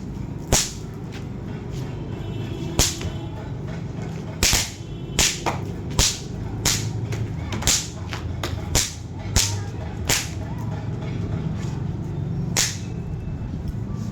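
Bang snaps (throw-down snappers) popping one at a time: about a dozen sharp cracks at irregular intervals, over a steady low background rumble.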